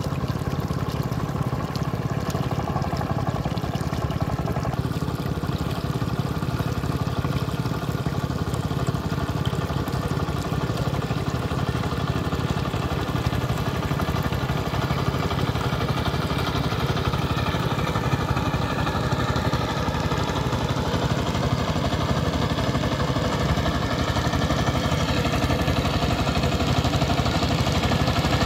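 Two-wheel power tiller's single-cylinder diesel engine running steadily as the tiller works through mud and water, its pitch wavering slightly now and then.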